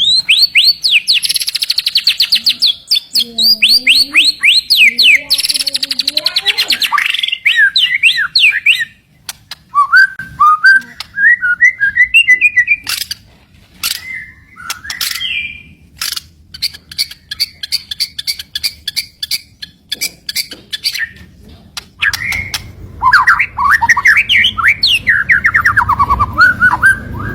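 White-rumped shama (murai batu) singing: fast rapid-fire trills of sharp high notes (the 'shot' notes prized in fighter shamas), then a rising run of notes, a stretch of quick clicking notes, and more fast gliding phrases near the end.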